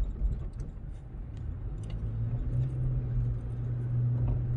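Car driving, heard from inside the cabin: steady low road and engine rumble, with the engine hum rising a little and getting stronger about two seconds in, then holding steady.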